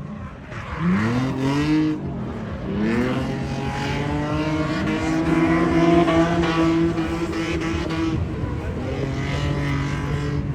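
Car engine revving hard: it climbs in pitch twice, then holds at steady high revs for about five seconds before dropping briefly and settling at high revs again.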